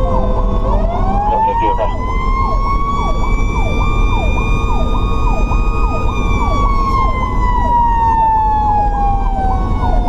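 Fire truck's Federal Q mechanical siren winding up about half a second in, holding a high wail, then coasting slowly down in pitch from about six seconds. Under it an electronic siren runs a fast repeating yelp, about two sweeps a second, over steady low engine and road noise.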